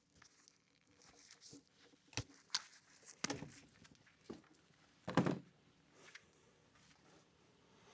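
A few scattered knocks and clicks of hand work, the loudest a dull thunk about five seconds in.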